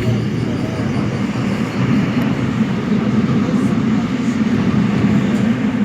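Seoul Metro Line 7 subway train running between stations, a steady loud rumble of wheels and running gear heard from on board.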